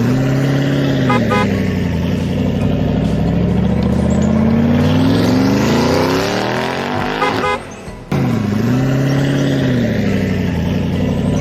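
Tractor engine running, its pitch dipping and then climbing steadily for several seconds as it revs. It breaks off suddenly about seven and a half seconds in, and the same rising engine note starts over again half a second later.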